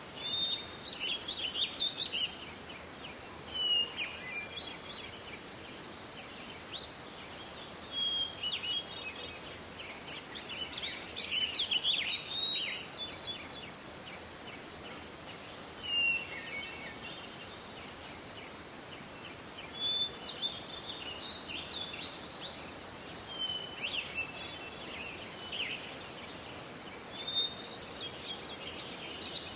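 Songbirds singing outdoors: bursts of high, quick chirping and trilled phrases lasting a second or two each, with short pauses between, over a steady background hiss.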